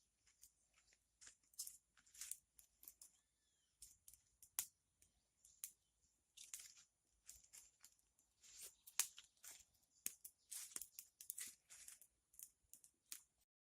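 Faint, irregular crackling and snapping from a newly caught kindling fire of toilet paper, banana leaf and thin twigs, with medium sticks being laid on it.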